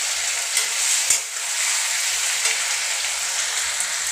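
Sliced onions sizzling steadily as they fry in hot mustard oil in a steel kadai. About half a second and a second in come two sharp clicks of the metal spatula against the pan.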